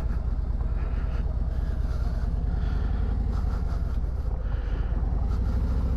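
Harley-Davidson Ultra Limited Low's Milwaukee-Eight 107 V-twin engine running steadily as the motorcycle is ridden, an even low pulsing drone.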